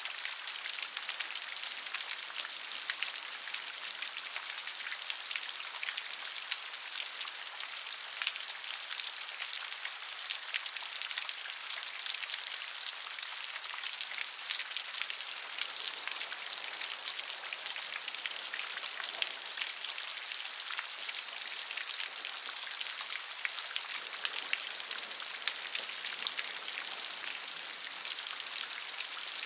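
Steady rain with many fine, close drop ticks, heavy on the hiss and light on the low end.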